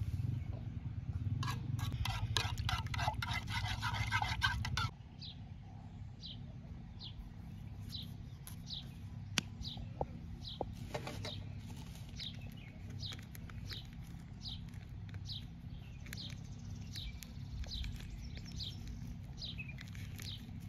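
Dense rustling and crinkling handling noise for the first few seconds, cutting off suddenly. Then a bird calls steadily in the background, a short falling chirp about twice a second, with a few light clicks.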